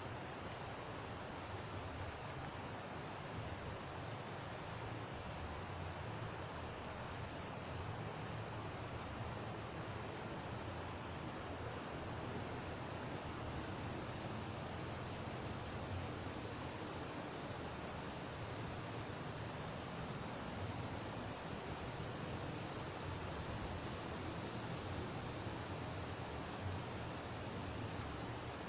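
Insects, crickets, keeping up a steady high-pitched trill, with a second, higher trill coming and going for a second or two about every five or six seconds, over an even hiss.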